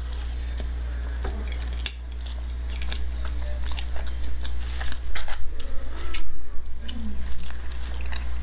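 Close-miked chewing of a mouthful of food: wet smacking and crunchy clicks, growing denser and louder about five seconds in, over a steady low hum.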